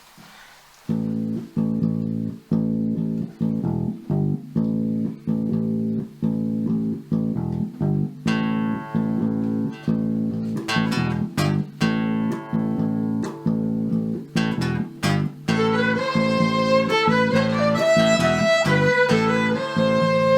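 Instrumental introduction to a folk song: guitar chords strummed in a steady rhythm, starting about a second in. A fiddle-like melody joins in the second half.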